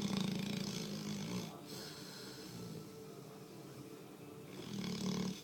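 Labrador retriever snoring loudly in its sleep: a long rasping snore at the start and another near the end, with quieter breathing between.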